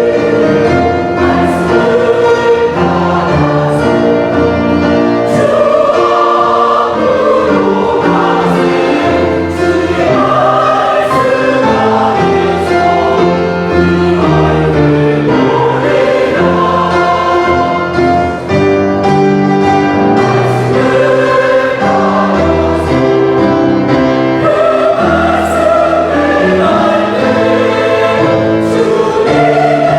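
Church choir singing a gospel anthem in several parts, with sustained notes held together.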